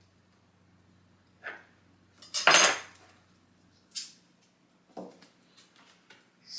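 Kitchen utensils and dishes clinking and knocking: a few separate knocks, the loudest a short clatter about two and a half seconds in, followed by a couple of sharp higher clinks.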